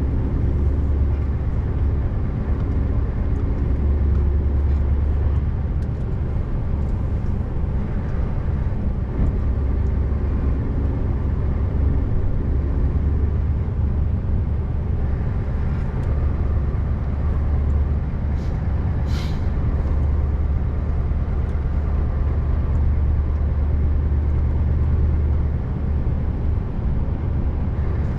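Scania R590's 16-litre V8 diesel engine running steadily under way, a deep continuous drone. There is a short hiss of air about two-thirds of the way through.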